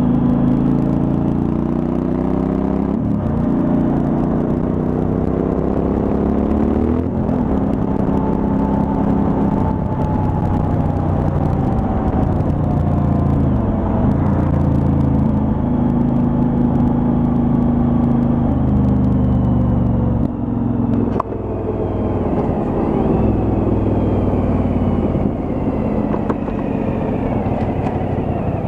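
Suzuki V-Strom 1000's V-twin engine running under way on the road, its pitch rising and falling with throttle and gear changes, with a brief dip about 21 seconds in.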